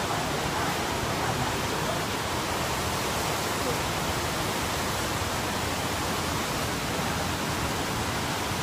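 Waterfall's water falling and rushing, a steady, even noise with no change.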